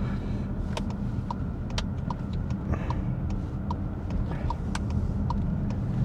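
Steady road and engine rumble heard inside a moving car, with a short, regular tick about every 0.8 s.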